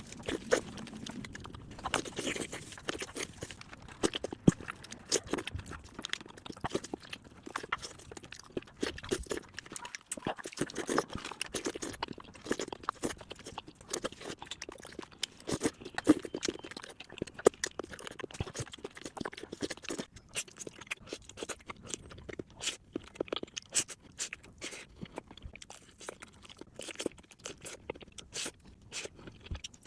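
Eating sounds of whole chicken: chewing with many sharp, irregular crunches.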